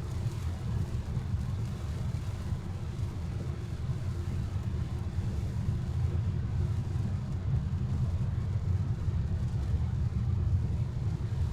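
Steady low rumble with no speech, the kind of even road or engine drone heard from a moving vehicle.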